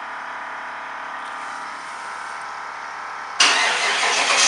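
1995 Cadillac Fleetwood Brougham's 5.7-litre LT1 V8 cold-starting: a steady hum with the key on and the fuel pump priming, then about three and a half seconds in the engine fires suddenly and keeps running, much louder.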